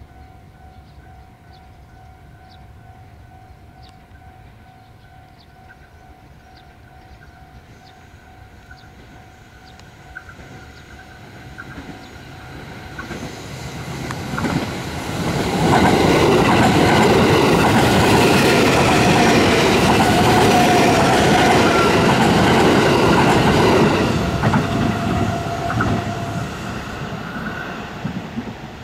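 JR 285 series sleeper electric multiple unit approaching and passing at speed. It grows louder over about fifteen seconds, is loudest for about eight seconds as it goes by, then fades away.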